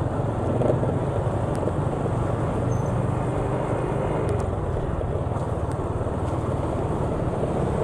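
Steady rumble of a motor vehicle driving along a street, engine and road noise continuous throughout.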